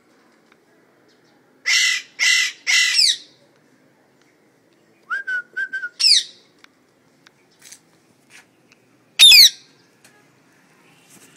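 Pet parrot squawking: three harsh squawks in quick succession, then a few short chirps and clicks and another call, and one loud squawk near the end.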